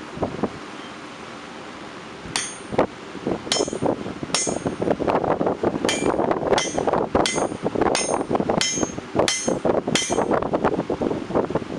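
Hand hammer striking a drift through the punched hole in a hot square steel bar on an anvil: a couple of knocks near the start, then about two seconds in a steady run of blows, the ringing ones coming about three every two seconds with duller strikes in between.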